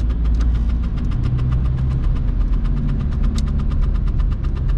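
VW Golf Mk3's 1.9 TDI four-cylinder diesel engine running while the car drives, heard from inside the cabin: a steady low drone with a fast, even ticking clatter.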